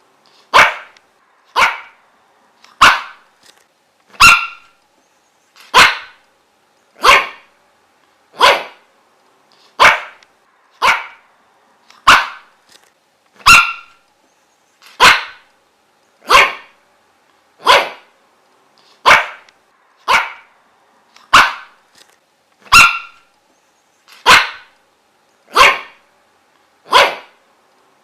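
A dog barking over and over: single short barks at a steady pace, about one every second and a bit.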